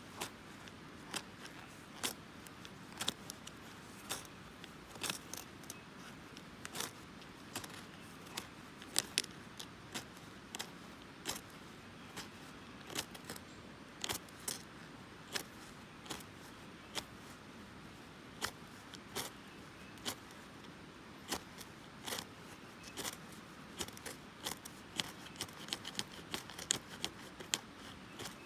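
Traditional flint and steel (hiuchi-ishi and steel striker) struck together again and again, sharp metallic clicks at an uneven pace of about one or two a second, coming faster near the end: striking sparks to light a campfire.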